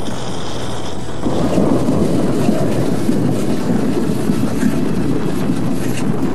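Passenger train running on the rails, a steady rumble that grows louder about a second in.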